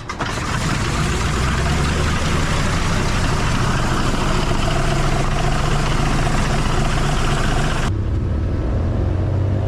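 Piston aircraft engine running steadily, a loud dense rumble that starts abruptly. Near the end the higher part of the sound cuts off suddenly, leaving a low drone.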